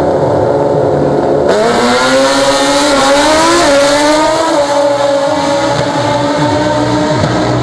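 Drag-racing motorcycle engine opening up about a second and a half in and running hard, its pitch climbing with a brief jump partway through, over the rumble of other engines.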